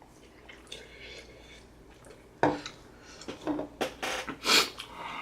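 A utensil clinking and scraping against a noodle bowl while eating: a sharp clack about two and a half seconds in, then a quick run of shorter clatters and scrapes.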